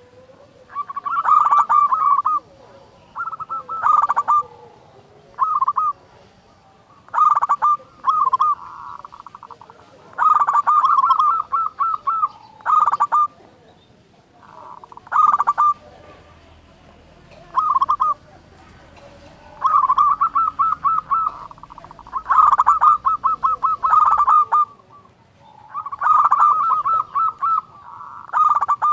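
Local zebra dove (perkutut) calling loudly: about a dozen phrases of rapid, stuttering coos, each lasting up to two seconds, repeated with short pauses between.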